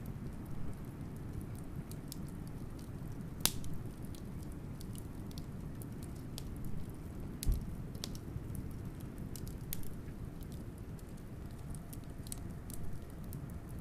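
Wood fire crackling, with irregular sharp pops and snaps, one louder pop about three and a half seconds in, over a steady low rumble of wind.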